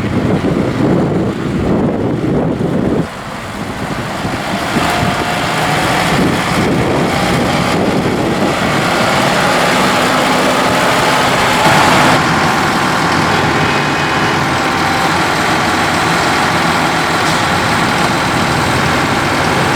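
Kubota M5-091 tractor's four-cylinder diesel engine running. Wind gusts on the microphone in the first few seconds, then the engine speeds up over a few seconds and runs steadily at the higher speed.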